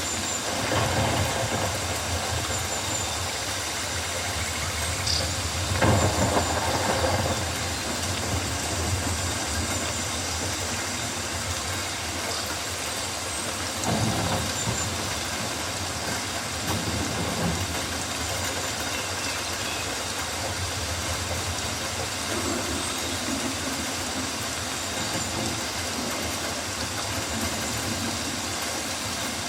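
Steady rain in a rainforest, a continuous hiss over a low rumble, swelling louder for a moment about six seconds in and again around fourteen seconds.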